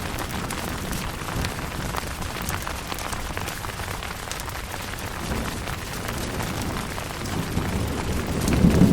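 Steady rain falling on a tent, with scattered sharp drip ticks. A low thunder rumble swells up over the last second or so.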